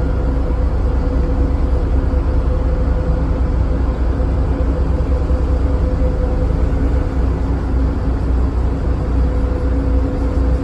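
Passenger ferry under way: a steady low engine drone with a constant hum, over an even rushing noise.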